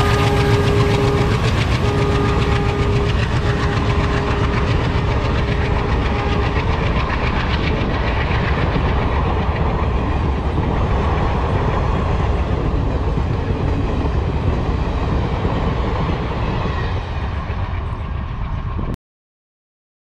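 Coaches of a diesel-hauled Indian passenger train rolling past at speed, a steady rumble with the dense clatter of wheels on the track, slowly softening. A held tone from the passing locomotive trails off in the first few seconds, and the sound cuts off suddenly about a second before the end.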